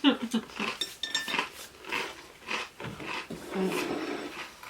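Utensils clicking and clinking against a plate and dishes in a quick, irregular series of light taps.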